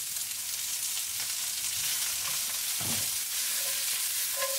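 Onions and carrots sizzling in hot oil in a stainless steel skillet, a steady hiss as they sear and caramelize over medium-high heat. Near the end the pan is lifted and tossed, with a short scrape.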